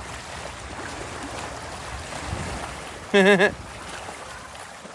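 Steady rush of moving water, with one short, loud, wavering vocal cry about three seconds in.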